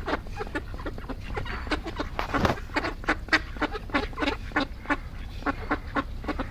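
Many birds calling at once in short, overlapping calls, several a second, with a brief louder rush about two and a half seconds in.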